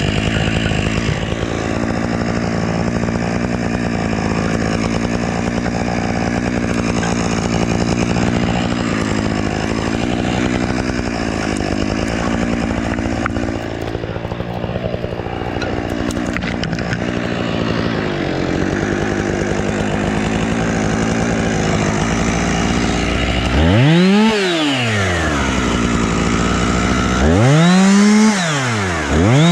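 Husqvarna chainsaw running steadily at working speed for most of the stretch. About 24 seconds in it is revved twice in quick succession, each time its pitch rising sharply and falling back.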